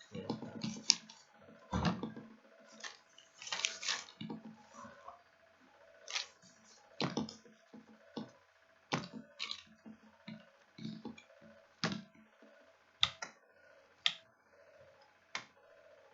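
Irregular clicks and knocks with some rustling in between, about a dozen spread through the stretch, over a faint steady hum: handling noise close to the microphone.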